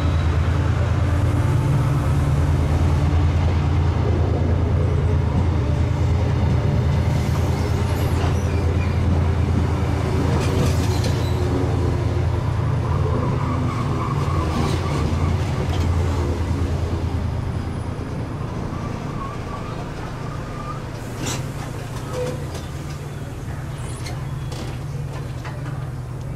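A train of Mk3 coaches hauled by a Class 68 diesel locomotive rolling into the platform and slowing. It makes a steady low rumble that gradually eases as the train slows, with scattered clicks and a few brief squeals from the wheels and brakes.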